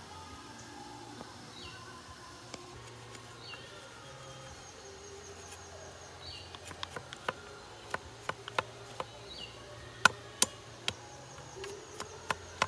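Outdoor ambience: a short call, likely a bird's, repeats about once a second over a faint high insect-like buzz. From about halfway through, a run of sharp clicks and taps comes in, the loudest near the end.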